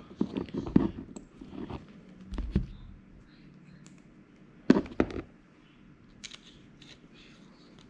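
Irregular clicks, taps and short knocks of small metal parts and tools being handled while a brushless drone motor is screwed back together after a bearing change; a dull thump comes about two and a half seconds in, and the loudest clatter about five seconds in.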